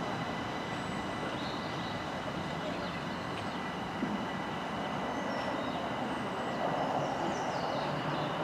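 Southeastern Class 375 electric multiple-unit train running steadily at the station, with an even rumble and a thin, steady high whine.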